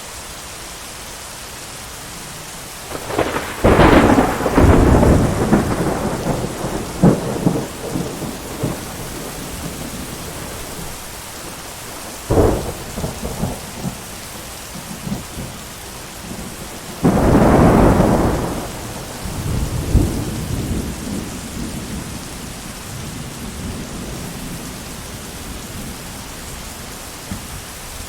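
Steady heavy rain with three peals of thunder: a long rolling peal a few seconds in, a sharp crack about twelve seconds in that rumbles off, and another loud rumble about seventeen seconds in.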